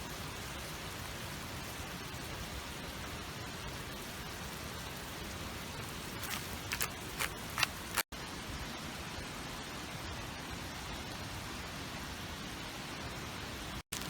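Food sizzling steadily in a frying pan over a campfire, with a few sharp pops about seven seconds in. The sound drops out twice very briefly, at about eight seconds and again just before the end.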